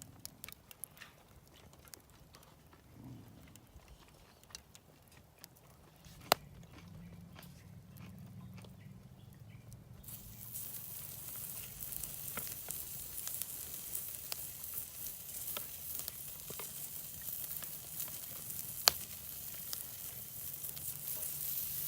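Food sizzling over a charcoal fire, with scattered small crackles and two sharp pops. The sizzle starts suddenly about halfway through and grows louder toward the end.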